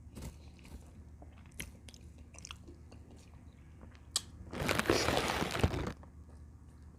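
Close-up mouth sounds of someone eating camel bone-marrow soup: soft chewing with small wet clicks, and a louder rough stretch lasting about a second and a half in the middle.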